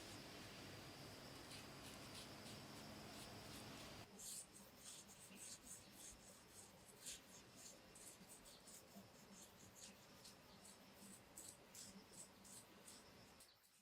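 Faint, irregular scratching and clicking, with a steady low hum and a thin high tone under it that stop about four seconds in.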